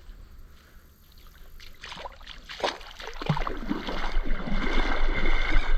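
River water splashing and rushing, growing louder from about two seconds in.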